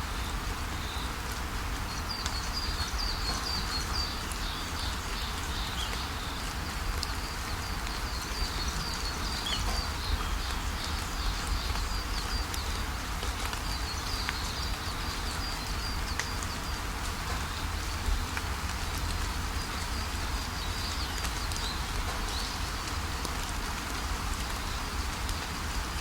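Steady rain falling, with a low rumble underneath. Songbirds chirp in quick runs of short high notes over it, in two spells, early and again past the middle.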